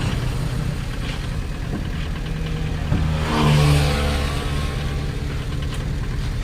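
Vehicle engine running steadily, revving up briefly about three seconds in.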